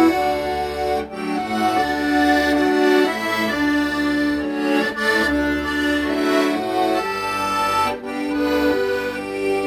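Accordion playing a slow, lyrical melody in held notes over low bass notes, with a brief dip between phrases about a second in and again near the end.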